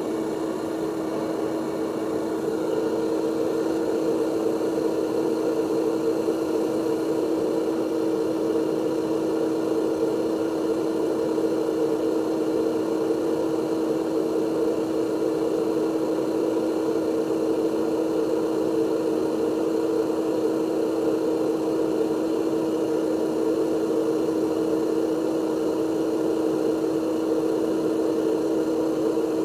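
A small electric motor running steadily: an even whir with a constant hum, a little louder from about two seconds in.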